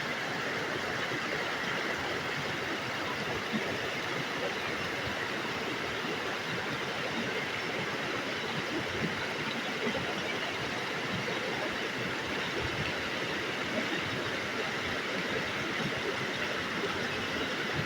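Steady rushing of flowing water, an even noise with no breaks or distinct events.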